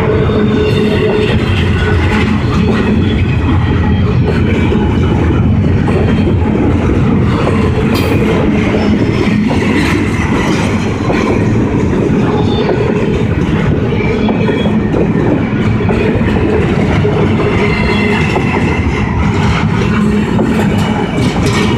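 Double-stack container cars of a long freight train rolling steadily past at close range: the continuous rumble of steel wheels on rail, with thin high wheel squeals now and then.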